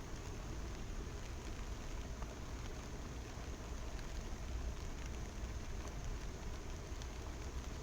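Steady rushing water of a waterfall with rain falling, with faint scattered ticks of drops through the even hiss.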